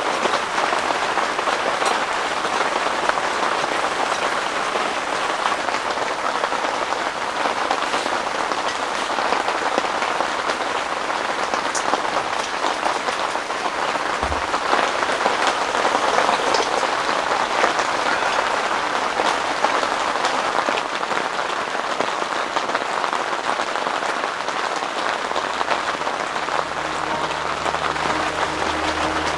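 Heavy rain pouring steadily, a dense, unbroken patter of drops. Low, sustained music tones come in near the end.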